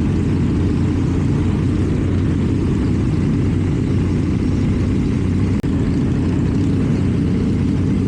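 KTM 790 Duke's parallel-twin engine, fitted with an Akrapovic exhaust, running steadily while riding. The sound drops out for an instant about five and a half seconds in.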